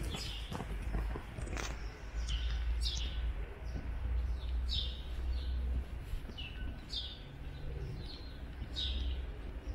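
Small birds chirping, short falling chirps about once or twice a second, over a steady low rumble.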